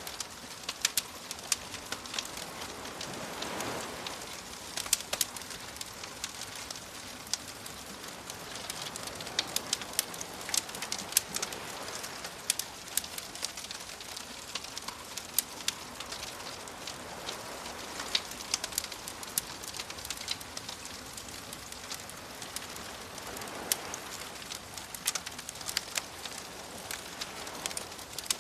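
Bonfire crackling with frequent sharp pops and snaps over a steady hiss, with soft waves swelling and fading every several seconds.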